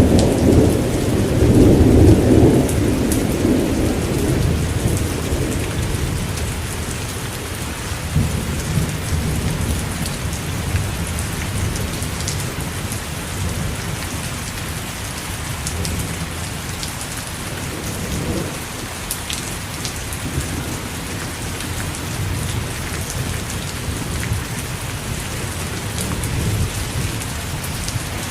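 Steady heavy rain hissing on surfaces, with rolling thunder rumbling loudest in the first few seconds and then dying away, and fainter rumbles returning now and then.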